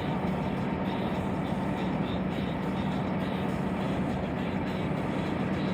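Steady road noise of a car travelling at highway speed, heard from inside the cabin: an even rumble and hiss of tyres and wind with a constant low engine hum.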